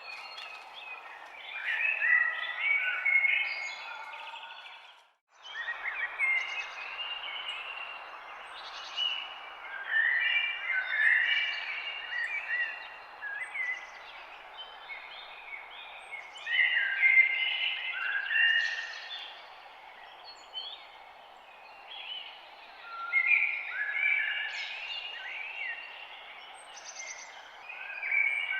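Several songbirds chirping and singing in overlapping short phrases over a steady background hiss. About five seconds in, the sound cuts out for a moment.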